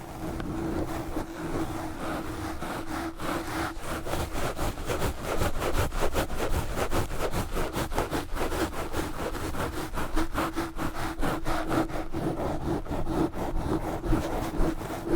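Knitted yarn gloves scratching fast and hard directly on a Blue Yeti microphone: a dense, unbroken run of rapid scraping strokes.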